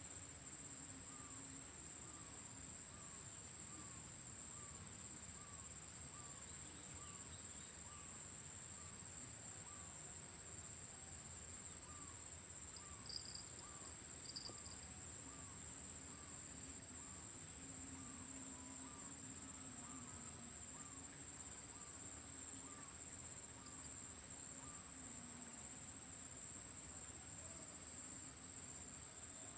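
Faint, regular calls of a white-breasted waterhen (ruak-ruak), short hooked notes about two a second in two long runs with a short break between them, over a steady high insect whine.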